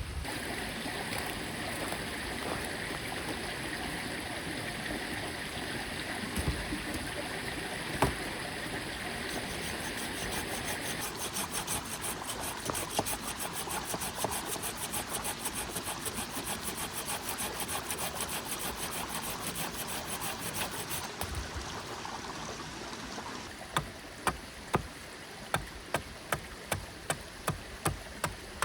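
Small mountain stream flowing steadily. Near the end, a run of sharp, evenly spaced knocks begins, about two a second.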